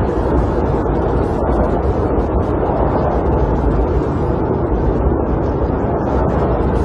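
Snowstorm wind blowing against a camper, heard from inside as a steady, dense rush that is strongest in the low and middle range.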